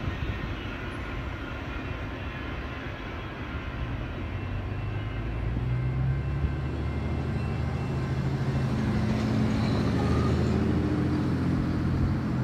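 Low diesel-locomotive rumble over a steady background noise, coming in about four seconds in and growing steadily louder as a train approaches.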